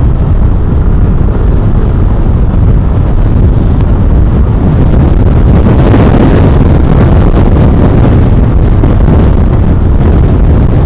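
Loud, steady wind buffeting the microphone on a moving vehicle, over low rumbling road and engine noise.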